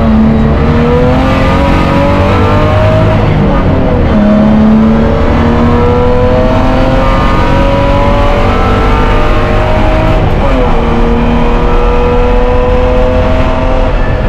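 BMW E30 race car's six-cylinder engine heard from inside the cockpit at full throttle, its pitch climbing steadily through each gear and dropping at upshifts just after the start, about four seconds in and about ten and a half seconds in, over heavy road and drivetrain rumble.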